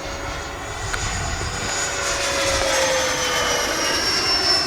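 Whine of an RC model jet's 80 mm electric ducted fan in flight. It grows louder as the plane approaches, then its pitch falls as it passes.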